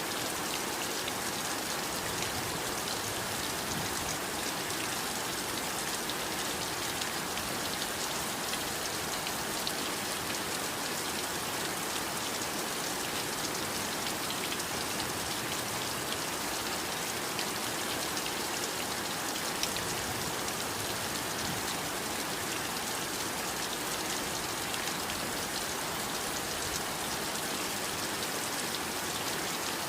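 Steady heavy rain falling, an even hiss with fine pattering of drops on a surface.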